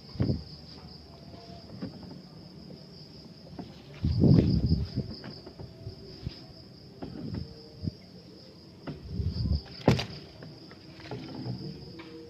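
A steady, high-pitched drone of insects, such as crickets or cicadas, runs throughout. Louder low rumbling bumps cut in now and then, the biggest about four seconds in and another around nine to ten seconds, with a sharp click near ten seconds.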